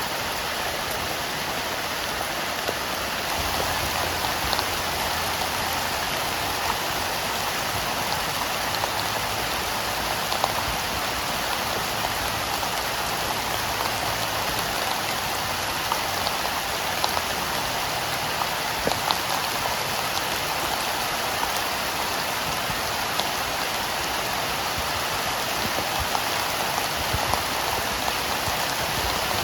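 Heavy rain falling steadily, a dense hiss with scattered sharper drop ticks; the low rumble of it thickens about three seconds in.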